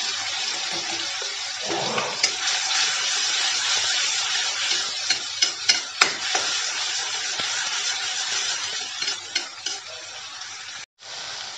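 Ground garlic, onion and green chilli paste sizzling in hot ghee in a kadhai, stirred with a steel spatula that clicks and scrapes against the pan. There is a cluster of sharp clinks about five to six and a half seconds in, and the sizzle is quieter near the end.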